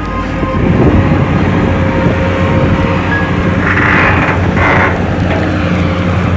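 Long-arm excavator's diesel engine running steadily under load, with two short hissy bursts about four seconds in as the machine works the soil.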